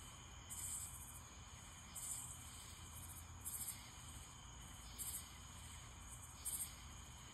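Night insect calling: a short, high-pitched pulsed chirp repeated about every one and a half seconds, five times, over faint low background noise.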